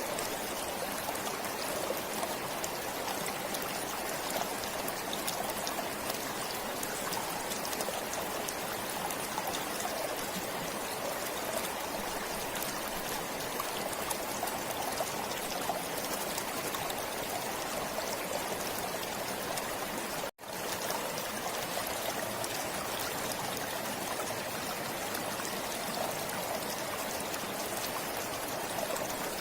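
Forest stream flowing steadily, an even rush of running water. About two-thirds of the way through it cuts out for a split second and comes straight back.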